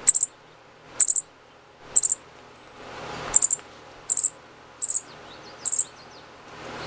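Baby sparrow chirping, short high-pitched calls of two or three quick notes repeated about once a second, the begging calls of a hand-fed young bird.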